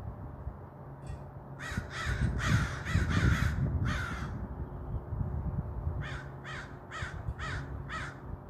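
Crows cawing in two runs of short repeated caws, about six in quick succession, then a pause, then about five more, over a steady low rumble.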